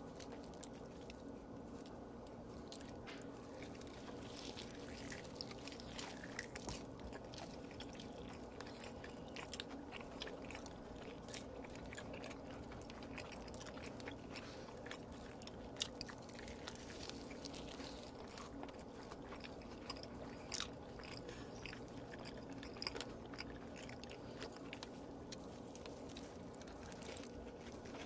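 Close-miked mukbang eating sounds: a person chewing and biting food with many small wet mouth clicks and smacks, faint, over a steady low hum.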